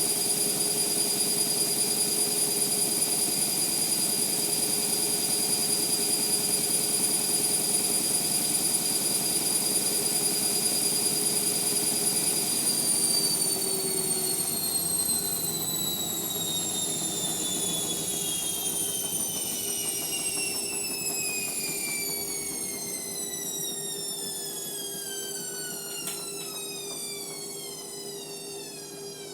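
Indesit MyTime washing machine on a spin, its motor and drum running at full speed with a steady high whine, then winding down from about halfway through, the whine falling steadily in pitch as the drum slows. A steady low hum runs underneath.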